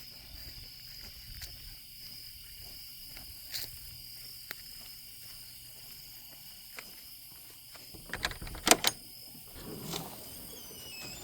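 Insects trilling steadily at several high pitches, with a few sharp knocks and clicks about eight to nine seconds in, the loudest sounds.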